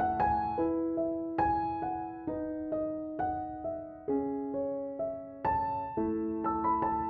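Background music: a slow, soft piano piece, single notes and chords struck about every half second and left to ring.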